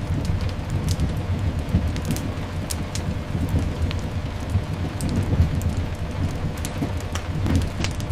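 Steady rain over a continuous low rumble, with scattered sharp crackles throughout.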